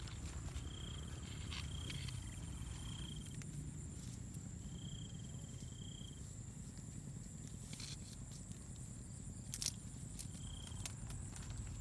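Jungle insects: a steady high whine, with a lower trill coming in short stretches of about half a second to a second, several times. A few sharp clicks, the loudest about nine and a half seconds in, over a low rumble.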